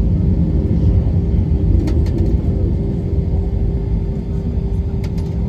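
Airbus A321 cabin noise: a steady low rumble of engines and airflow with a constant hum, and a couple of faint clicks.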